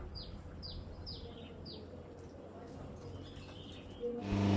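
A bird calls a quick series of about four short, high, falling chirps in the first two seconds. Near the end a loud, low, steady hum sets in.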